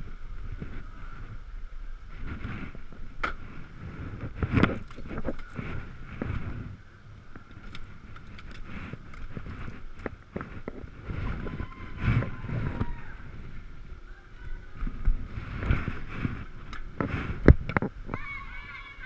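Ekoway ML5000 electric scooter riding: a steady high whine over a low road rumble, with irregular knocks as it goes over bumps. Near the end a cat starts meowing.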